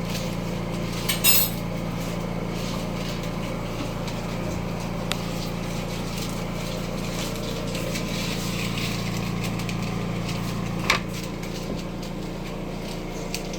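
Steady low hum with a few clinks and knocks of kitchen utensils: a short clatter about a second in and a sharp knock near the end.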